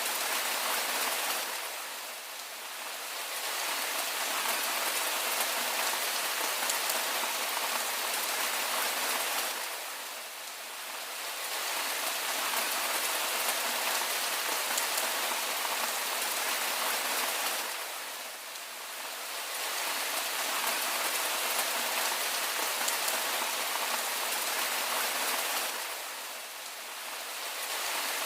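Steady rain falling, a dense hiss that eases briefly in loudness about every eight seconds.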